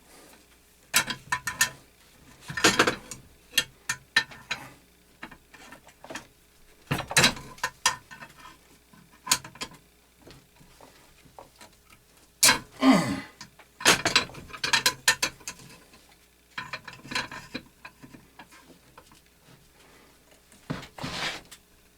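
Metal clicks and clanks of channel-lock pliers gripping and working at a stuck part on a belt grinder, in irregular bursts, with one short falling squeal near the middle.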